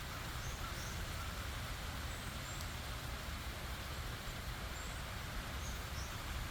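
Steady rushing of a stream and waterfall, with a low rumble beneath it. A few faint, short, high chirps come and go over it.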